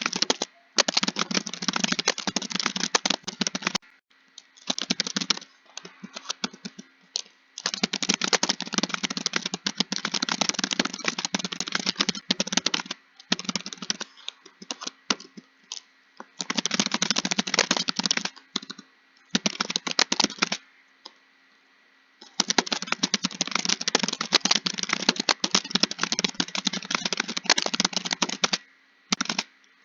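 Computer keyboard being typed on quickly, in runs of rapid key clicks a few seconds long broken by short pauses and scattered single keystrokes.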